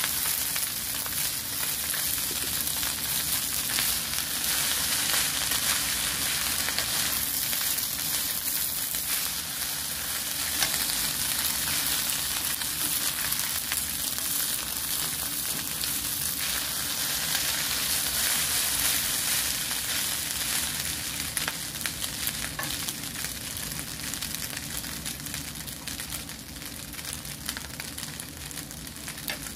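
Fried rice (sinangag) sizzling in a hot nonstick pan while a wooden spatula stirs and scrapes through it, a steady sizzle with fine crackling ticks. The sizzle eases a little toward the end as the stirring stops.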